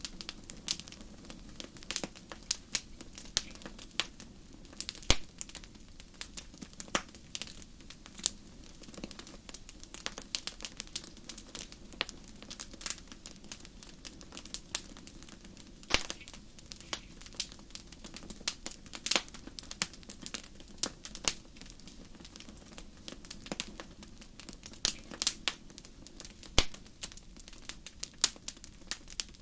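Fireplace fire crackling: irregular sharp pops and snaps, some much louder than others, over a soft steady hiss.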